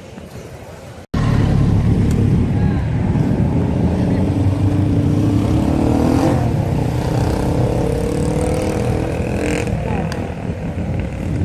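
Motorcycle engine running loud and accelerating, its pitch rising slowly over several seconds. It cuts in abruptly about a second in.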